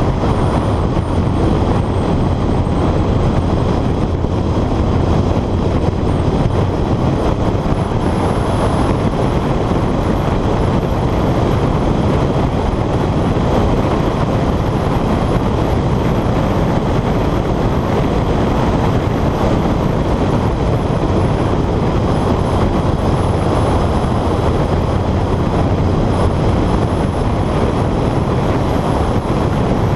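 Honda CR-X engine running hard at speed on a time-attack lap, buried in heavy wind rush on a bonnet-mounted camera. The level stays steady with no clear gear changes.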